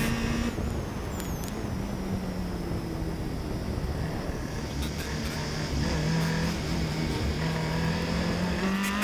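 Rally car engine running under way over tyre and road noise. Its note drops about half a second in, holds fairly steady, then climbs near the end.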